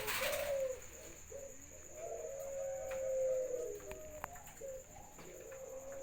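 Pet doves cooing: a run of low, drawn-out coos with one long held note in the middle and shorter notes around it. A brief rustle sounds at the start.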